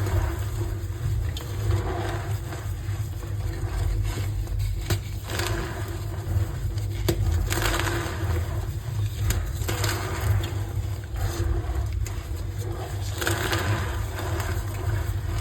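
Blocks of gym chalk being squeezed and crushed by hand, crunching in repeated bouts every two to three seconds over a steady low rumble.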